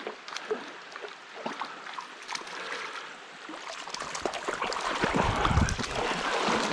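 Creek water running steadily, with scattered sharp clicks. From about four seconds in come louder, irregular splashing and knocking sounds while a hooked trout is being played.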